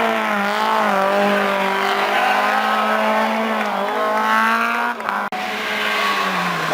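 Classic rally car engine running hard at high revs, its pitch wavering and then climbing about four seconds in, with a brief break about five seconds in.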